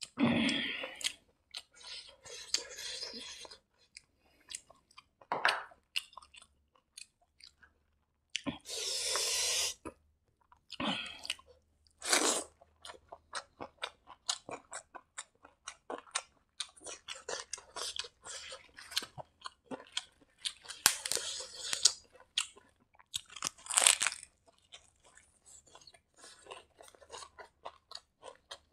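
Close-up mouth sounds of a person eating fried rice by hand: steady wet chewing and lip smacks, with several louder crunches.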